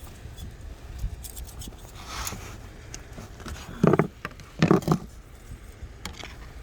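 Handling noise from checking the engine oil dipstick: small clicks and scrapes, with two louder, brief rubbing scrapes about four and five seconds in.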